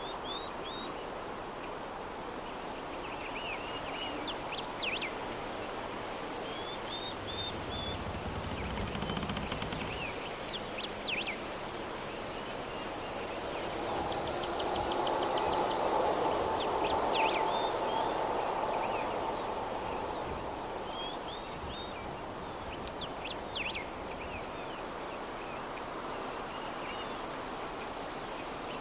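Soft steady breeze with small birds chirping outside in short bursts of quick calls every few seconds. The breeze swells louder for a few seconds in the middle, with a brief low rumble before it.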